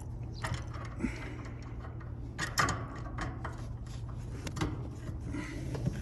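Metal clicks and scrapes of a tool working on a locking refrigerant service-port cap as it is tried for removal, with a few sharper clicks about half a second and two and a half seconds in. A steady low hum runs underneath.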